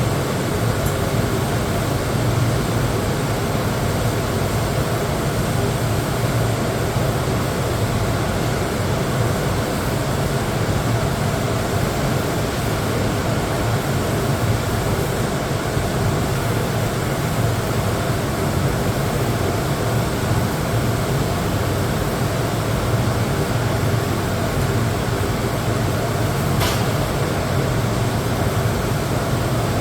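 TIG welding arc on mild steel, a steady hiss and buzz with a strong low hum, with one sharp click near the end.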